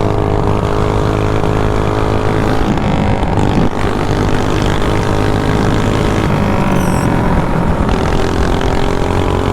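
Mini bike's stock 212cc Predator single-cylinder engine with a race pipe, running hard at a steady pitch under way, with one brief dip about a third of the way in.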